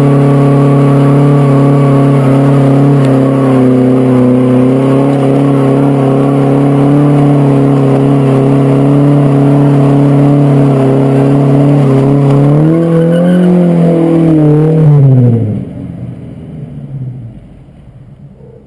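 1978 Ford Capri's modified 2.0-litre Pinto four-cylinder engine held at steady high revs while the rear wheels spin in a smoky burnout. The revs climb briefly about thirteen seconds in, then drop, and the sound fades quickly near the end as the car pulls away.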